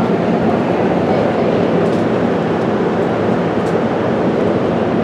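MARC commuter train rolling along the platform, a loud, steady rumble of the train without breaks.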